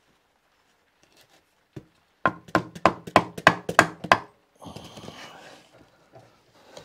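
A single knock, then a quick run of about nine sharp taps, roughly five a second, struck through a protective cloth to persuade an engine mounting stud through a motorcycle frame. Softer scraping and handling noise follows.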